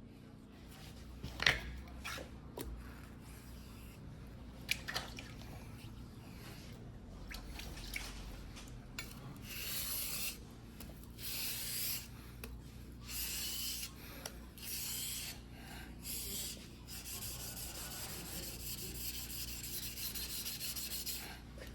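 Fuguhiki sashimi knife blade scraping on a whetstone during hand sharpening. A few sharp knocks in the first five seconds, then hissing sharpening strokes about one every second and a half, running together into continuous scraping near the end.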